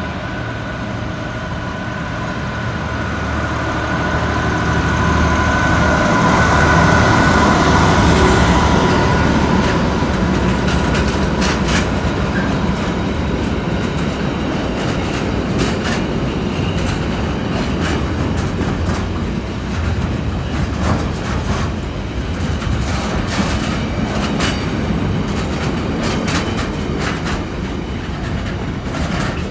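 A container freight train passes close by: the locomotive comes through with a steady whine and rumble, loudest about seven to eight seconds in. After it, the loaded container wagons roll past with a steady rumble and frequent clicks of wheels over rail joints.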